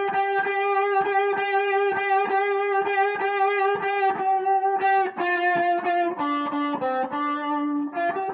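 Guitar playing a blues lick in D: one note picked over and over in a steady rhythm, then stepping down through lower notes toward the root about five seconds in.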